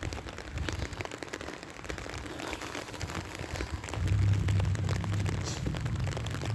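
Rain falling, an even hiss full of small drop ticks. About four seconds in, a steady low rumble comes in beneath it and keeps on.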